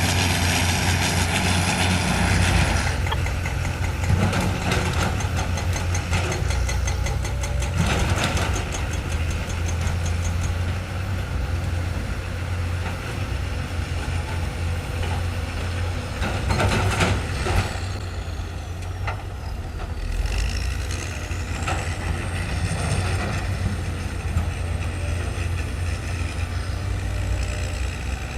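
Heavy diesel earthmoving machinery at work, a steady low engine drone with a few sharp metallic clanks. A loud hiss over the first three seconds stops suddenly.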